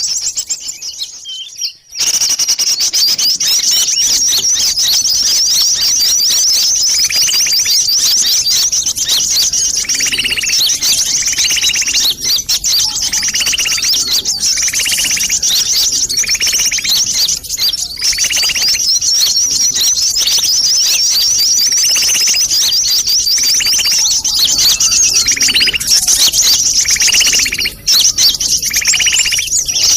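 Bird-lure recording of small birds, sunbirds, twittering noisily: a dense, continuous stream of rapid high chirps with a lower call repeating about every second. The sound drops away briefly at the start and comes back about two seconds in.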